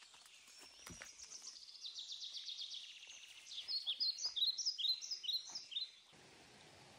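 Wild birds singing: a rapid trill, then repeated short chirping phrases. The song cuts off suddenly about six seconds in, leaving a steady hiss.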